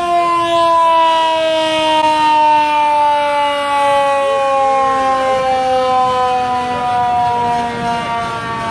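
Fire truck siren sounding one long, loud tone whose pitch slides slowly and steadily lower.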